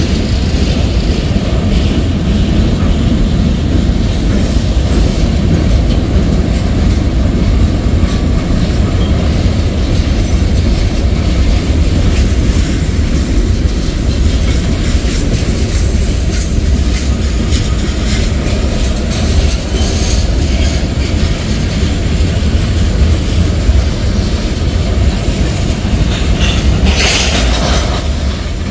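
Cars of a mixed freight train, autoracks then tank cars, rolling past close by: a steady heavy rumble of steel wheels on rail with rapid clacking over the rail joints. A brief burst of higher-pitched noise comes near the end.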